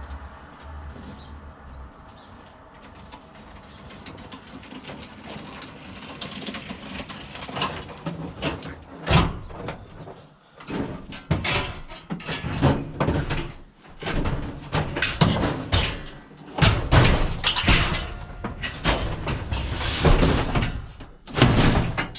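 Heavy metal bangs, knocks and scrapes, irregular and loud from about nine seconds in, as a scrap household appliance is manhandled and loaded into a van.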